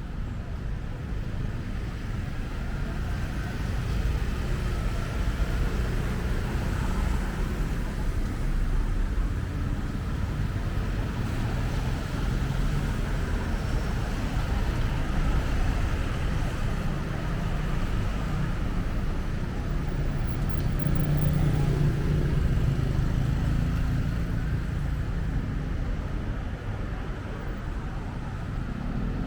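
Street traffic: vehicles passing steadily, with a low engine rumble that swells around twenty seconds in.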